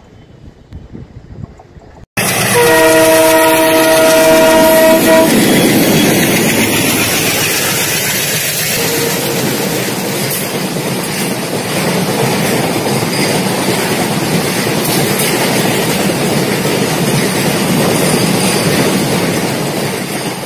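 About two seconds of faint train sound, then a sudden loud train horn sounding a chord of several tones for about two and a half seconds. A train then runs past, a steady loud rush with wheels clattering on the rails.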